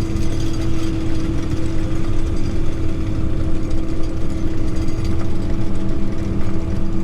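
Prinoth Bison X snow groomer's diesel engine and drive running steadily while the machine is driven, heard from inside the cab, with a constant whine over the low drone.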